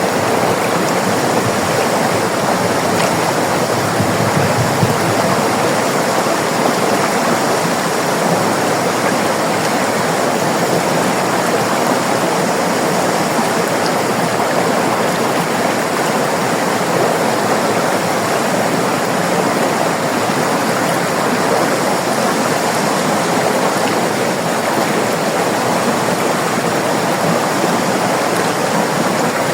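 River water rushing and babbling in a steady, unbroken flow.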